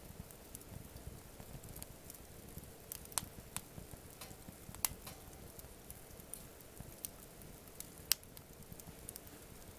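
Wood campfire crackling, with irregular sharp pops, the loudest about 5 and 8 seconds in.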